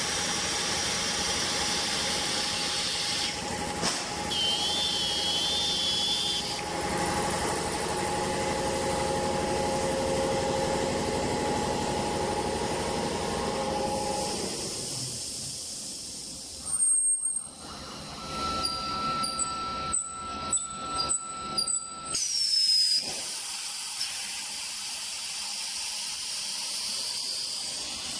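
Meat stick processing line machinery running with a steady hiss and hum, with a few held whining tones in the first half. Past the middle the noise drops, there is a sudden loud burst, then a run of short high beeps over a held tone for a few seconds before the steady hiss returns.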